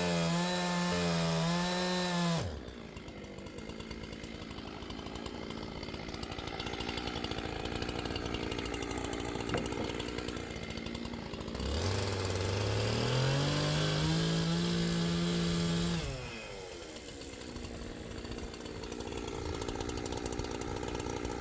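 Two-stroke chainsaw held at full throttle, then dropping back to idle about two seconds in. About twelve seconds in it revs up with a rising whine, holds high for about four seconds, and falls back to idle.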